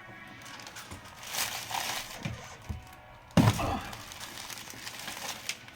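Polycarbonate window pane in its rubber seal crackling and creaking as it is pushed hard from one side, flexing a lot in the seal, with one loud thunk about three and a half seconds in.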